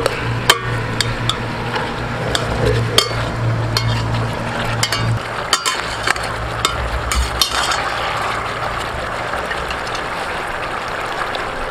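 Chicken sizzling in a stainless steel pot, with a steady crackle from the frying juices. Sharp clicks come every so often as a metal fork knocks against the chicken and the pot. A low hum sits underneath and stops about five seconds in.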